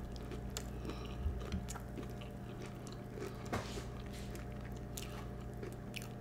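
A person chewing a mouthful of Kellogg's Peeps cereal, marshmallow-flavoured puffs with marshmallows, up close, with scattered soft clicks and crunches. A steady low hum runs underneath.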